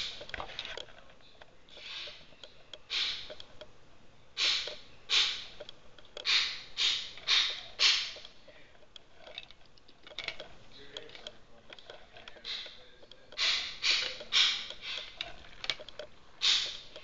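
Footsteps crunching through deep, fresh snow, in runs of about two steps a second with pauses between.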